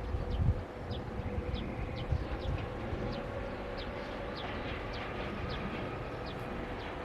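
Bird chirping repeatedly, short falling notes about twice a second, over a steady hum and a low rumble.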